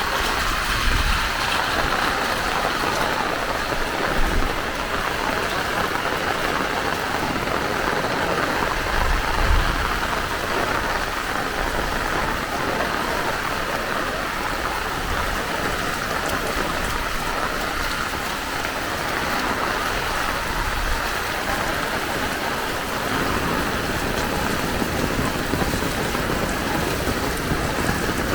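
Heavy rain falling steadily, an even hiss of rain on the ground and surfaces. A few brief low thumps stand out, loudest about 4 and 9.5 seconds in.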